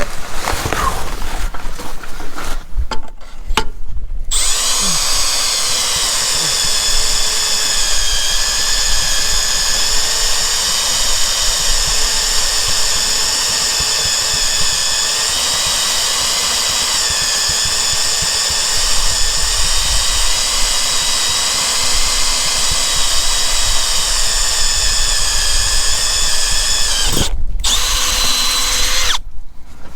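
A power drill running with a steady, high whine for about twenty seconds. It starts abruptly a few seconds in and stops shortly before the end, with brief handling clatter around it.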